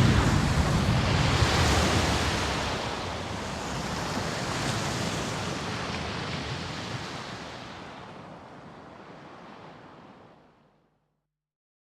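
Dramatic sound effect: a loud rush of noise that starts suddenly, then fades slowly over about ten seconds and cuts off into silence near the end.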